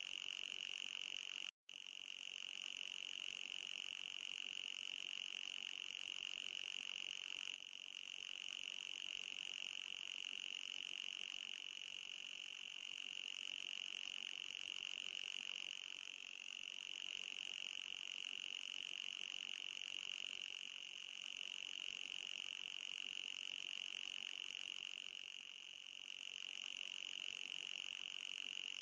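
Anti-mosquito repeller sound: a continuous high-pitched electronic tone near 3 kHz with a fainter, higher band above it. It cuts out for an instant about a second and a half in, and wavers slightly in pitch a few times.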